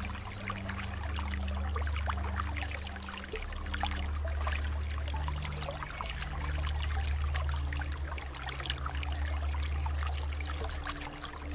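Water trickling and pouring, like a small stream, over low held tones that shift to a new pitch every second or two.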